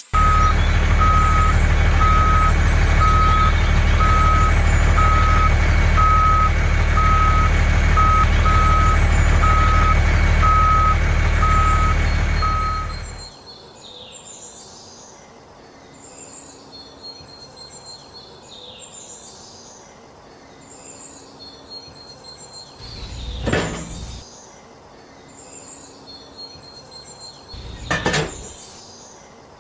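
Truck engine running while a reversing alarm beeps steadily, about one and a half beeps a second. Both stop suddenly about thirteen seconds in, leaving faint bird chirps and two short swells of noise.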